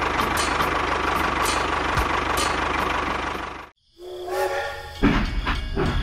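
Toy tractor's engine running with a steady hiss and a regular tick about twice a second, cutting off suddenly. After a brief silence a toy steam train's whistle sounds for about a second, then the train starts up with a low rumble and clicks.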